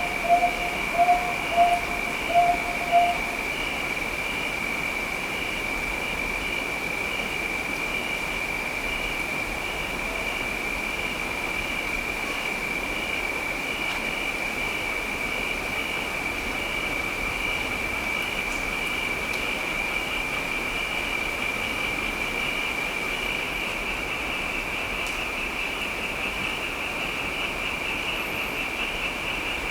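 Crickets trilling steadily at a high pitch over a hiss of rain. A frog gives about six short croaks in the first three seconds.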